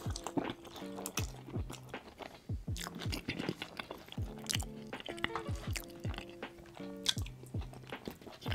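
Background music with a melody and deep falling bass hits, over close-miked ASMR eating: wet chewing and crunchy bites of chili cheese fries, with many quick clicks.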